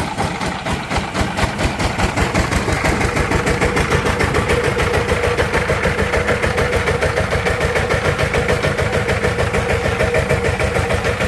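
Diesel engine of a power tiller running with an even, rapid chugging that becomes steadier about two to three seconds in.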